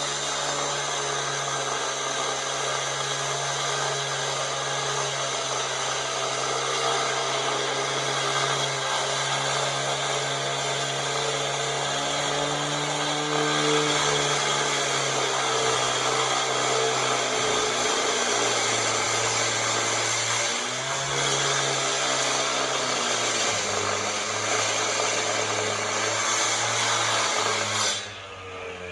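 Power saw cutting concrete, its motor running continuously with the pitch dipping and recovering a few times as it loads in the cut. It winds down near the end.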